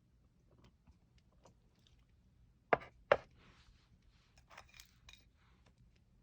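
Small handling sounds in a quiet small room: scattered light clicks and rustles, with two sharp knocks in quick succession about three seconds in and a few more clicks a little later.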